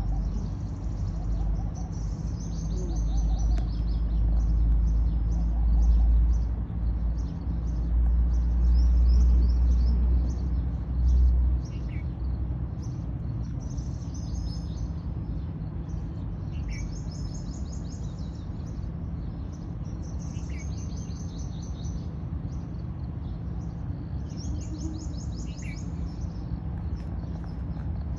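Birds chirping in short, rapid high trills every few seconds, with a few falling chirps. Under them runs a low rumble that is loud for roughly the first eleven seconds, then drops off sharply.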